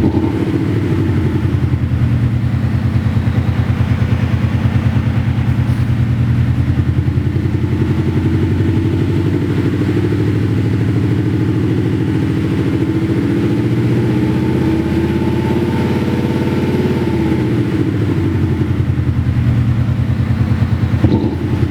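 Mercedes-Benz C200d running with a Xhaust sound booster, an active exhaust speaker that plays a synthesized sports-car exhaust note over the diesel. The engine note is steady, climbs slowly in pitch over several seconds, then falls back again near the end.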